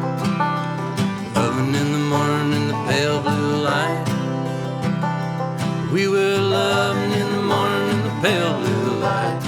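A band playing an instrumental passage of a country-folk song: guitars and bass over a steady beat, with a lead line of sliding, bending notes.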